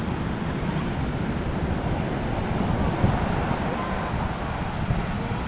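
Wind buffeting a phone microphone in a steady low rumble, over the wash of heavy surf.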